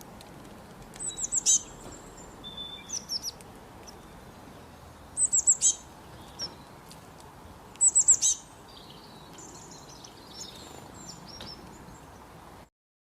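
Small birds chirping in quick clusters of short, high, falling notes, four bursts with fainter calls between, over a steady background hiss. The sound cuts off abruptly near the end.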